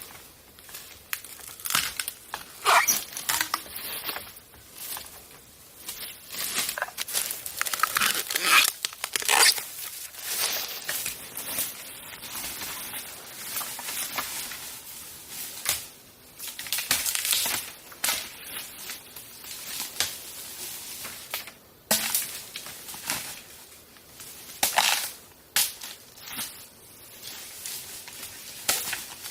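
Irregular crunching and crackling of dry plant material being handled and broken, with sharp snaps every few seconds.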